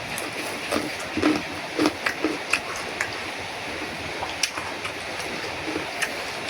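A person eating noodles and fresh vegetables: irregular chewing and mouth clicks over a steady background hiss.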